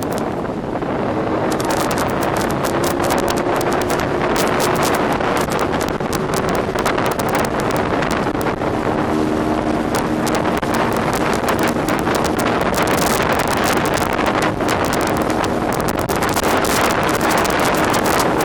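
Korjaal speedboat's engine running steadily at speed, a low hum under heavy wind buffeting on the microphone.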